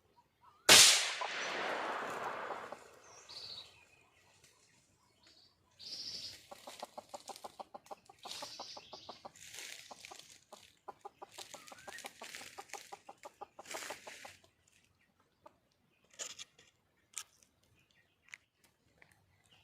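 Red junglefowl hen clucking in long runs of rapid, evenly spaced notes, with a few single short calls near the end. About a second in there is a sudden loud rushing burst that fades over two seconds.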